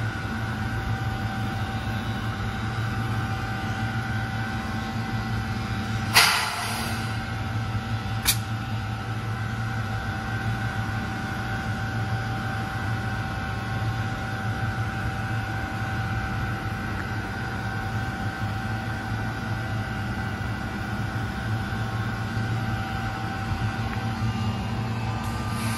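Standing electric train humming steadily, with a sudden sharp hiss of air about six seconds in and a short click two seconds later.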